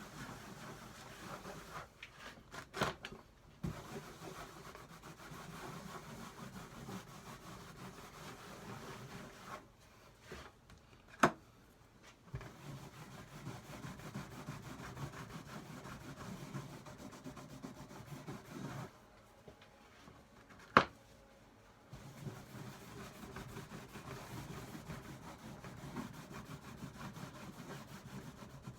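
Wax being rubbed and buffed into the wood of an old wooden toolbox, a steady rubbing that stops briefly three times. Two sharp knocks stand out in the pauses, about a third and about two-thirds of the way in.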